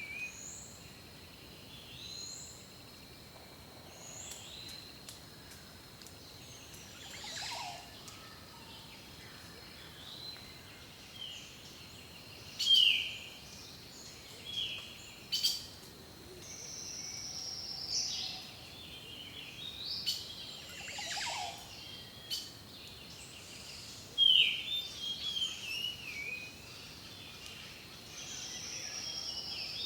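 Several wild birds singing and calling over a soft background hiss: short repeated high notes, whistled phrases that fall in pitch, and a thin steady high tone underneath. The loudest phrases come about thirteen and twenty-four seconds in.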